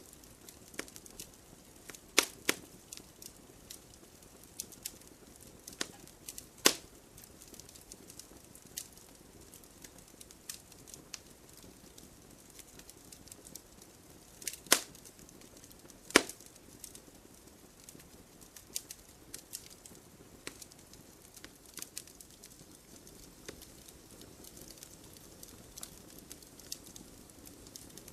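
Wood fire crackling: scattered sharp pops and snaps at irregular intervals, four of them much louder, over a steady low hiss of the flames.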